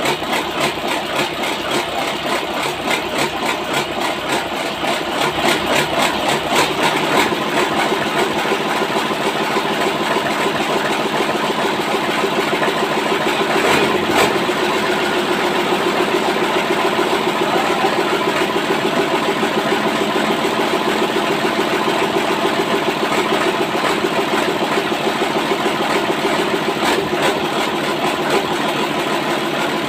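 Engine running steadily after a piston replacement, getting somewhat louder about seven seconds in.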